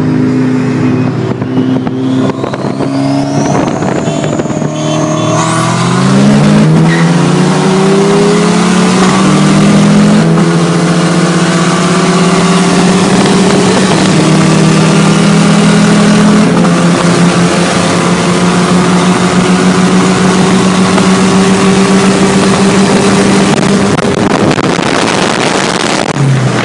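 Car engine heard from inside the cabin during hard acceleration: the revs climb steeply for a few seconds, then hold a steady, high-revving note over loud wind and road noise. A thin whistle rises in pitch during the first few seconds.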